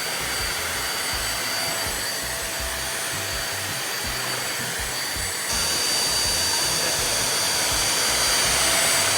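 Albatros Cyclone 800 W stick vacuum cleaner running with a steady rushing hiss and a thin high whine. About five and a half seconds in it gets louder.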